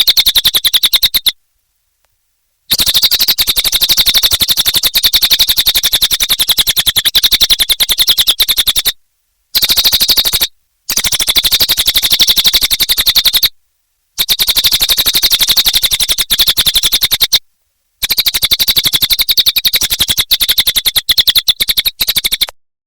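Cililin bird's song: a very fast, dry rattling chatter, high-pitched, in long bouts of several seconds. The bouts are cut off sharply by short dead-silent gaps, five times in all.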